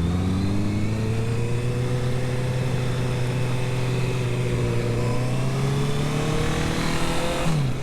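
Honda CB650R inline-four engine through an IXIL aftermarket exhaust, pulling steadily under throttle with its pitch slowly climbing. Near the end the pitch drops sharply in a quick upshift.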